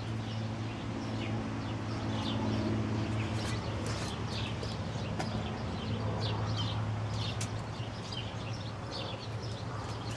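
Birds chirping in short, repeated calls over a steady low hum.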